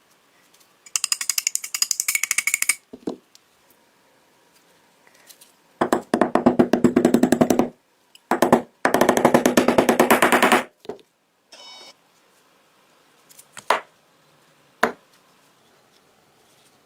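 Three bursts of fast, evenly repeated strokes from a tool working metal, the first bright and hissy, the next two fuller and lower. Two sharp clicks follow near the end.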